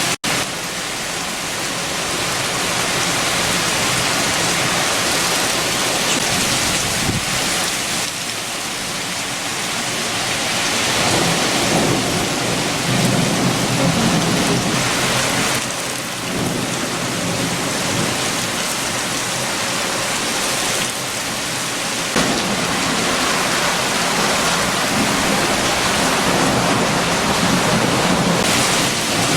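Heavy rain falling steadily with strong wind, with deep rumbles swelling and fading twice, about a third of the way in and near the end. There is a brief dropout in the sound just after the start.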